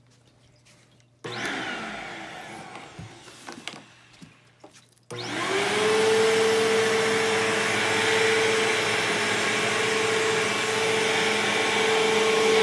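Bissell CleanView upright vacuum cleaner: a sudden burst about a second in that fades away, then about five seconds in the motor starts, spins up quickly and runs steadily with a steady whine.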